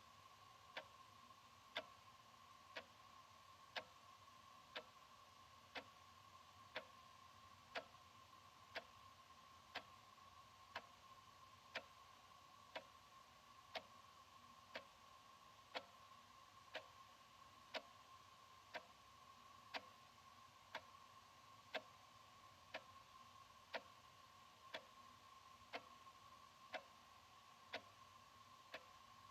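Analog wall clock ticking steadily, one tick a second, over a faint steady tone.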